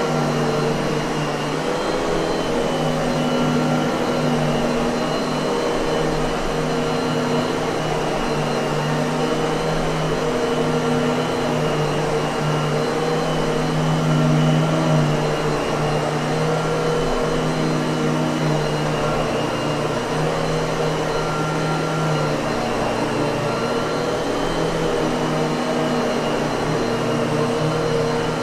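Miele vacuum cleaner motor running steadily, a constant whirring hum with a faint steady high whine.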